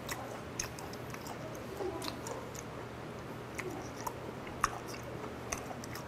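A man chewing firm, chewy raw dorangchi sashimi with his mouth, giving scattered wet clicks and smacks. One click a little past four and a half seconds in is the loudest.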